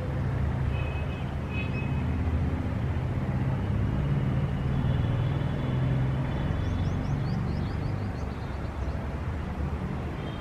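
Steady low rumble of city traffic, with birds chirping faintly over it: a few short calls about a second in and a quick run of chirps later on.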